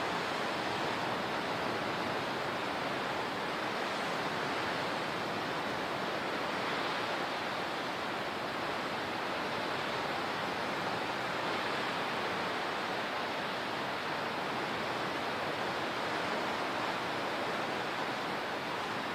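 Steady, even rush of water, with no wave-by-wave rise and fall.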